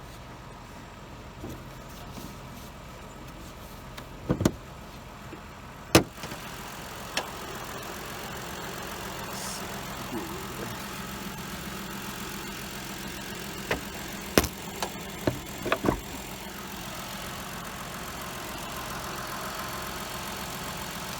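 Ford Explorer's engine idling steadily, with several sharp clicks and knocks from handling in the engine bay, most of them about four to six seconds in and again around fourteen to sixteen seconds.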